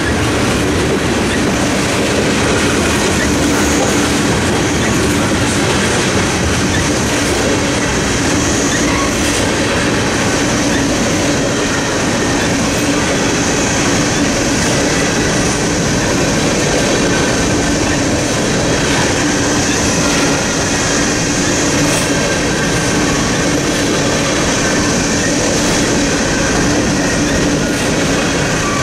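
Freight train of tank cars and covered hopper cars rolling steadily past, with a continuous loud rumble and clatter of wheels on the rails.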